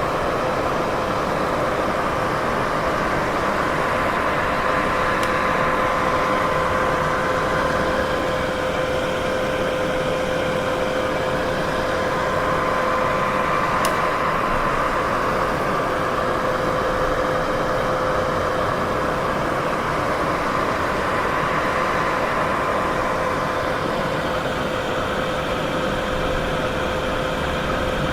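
Continuous white noise: an even, unchanging hiss with a faint steady hum of two tones running under it.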